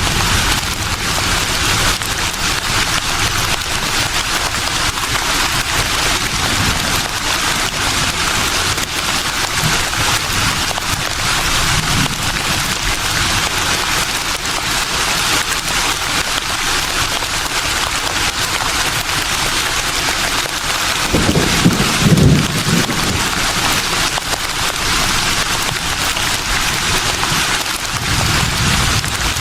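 Leaves rustling in a steady breeze, an even hiss, with a low rumble of a stronger gust about three-quarters of the way through and again near the end.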